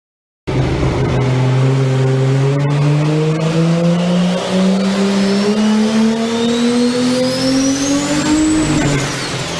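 Car engine accelerating hard, its pitch climbing steadily for several seconds with a high whine rising alongside, then falling away near the end as the throttle comes off.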